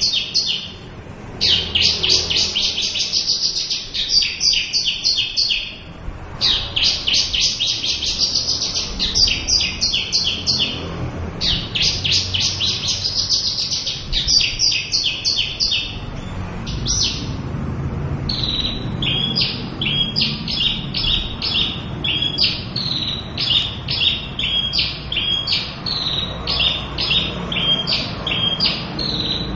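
Javan bush lark singing: fast runs of high trilled notes broken by short pauses, then, from about two-thirds of the way in, a steady series of separate notes that each slide downward, about two a second.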